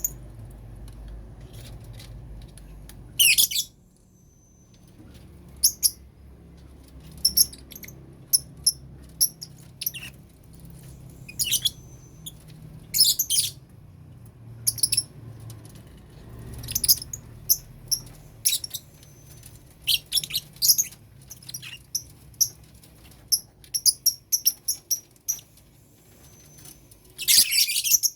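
Lovebirds chirping: short, sharp, high-pitched chirps scattered throughout, with a longer, louder burst of calling near the end.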